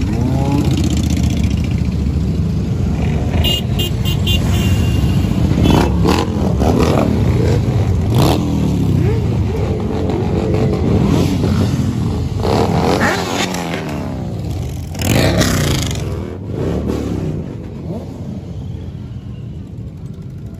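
Many motorcycle engines running and revving, their pitch rising and falling over and over as bikes rev and pass. A run of short high beeps sounds about three to four seconds in.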